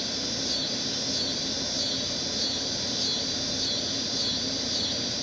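Insects chirping in a steady pulse about twice a second, over a constant low background hum.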